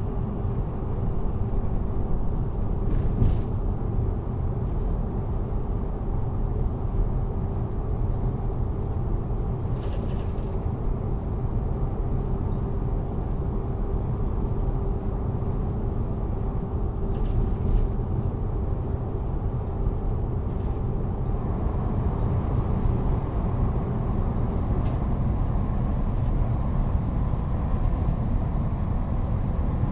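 Train interior: a steady low rumble of a moving railway car, with a faint held hum until about three-quarters of the way through and a few brief clicks or knocks spaced several seconds apart.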